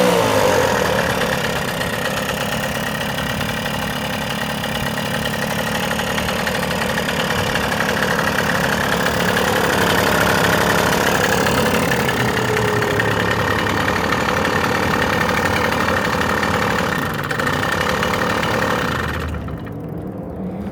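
Rebuilt Puch ZA 50 two-stroke 50 cc moped engine with a 15 mm carburettor, running steadily on test, its speed rising and falling slightly about ten seconds in. Near the end the sound drops off and becomes quieter.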